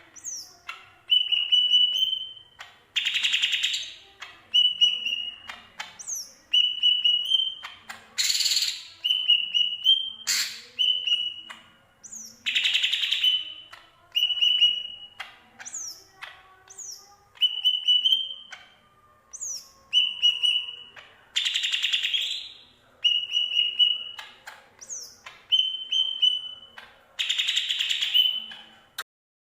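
Cucak ijo (green leafbird), the yellow-headed Sumatran form, singing without mimicked filler notes. It repeats a phrase of a quick falling whistle and a short clear note, and every few phrases it breaks into a loud scratchy chatter.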